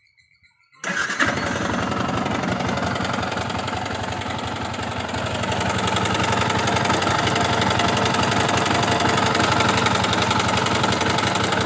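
Yamaha R15 V2's single-cylinder engine running from about a second in, with a fast ticking rattle from the top end: the 'tak tak' of a loose timing chain, which the owner takes for a worn chain tensioner.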